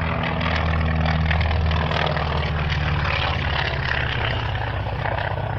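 A World War II Wildcat fighter's radial piston engine and propeller droning steadily as it flies its aerobatic display, the pitch shifting slightly about two seconds in.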